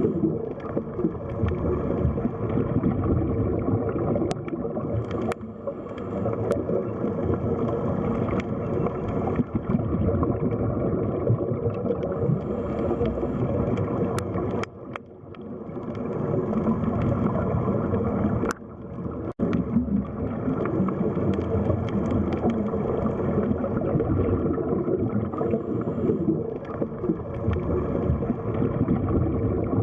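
Underwater sea ambience: a steady, muffled wash of gurgling water with scattered faint clicks, dipping briefly twice around the middle.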